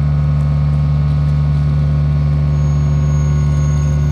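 Kubota U55-4 mini excavator's diesel engine running at a steady speed while its hydraulics ease a heavy concrete pipe into place.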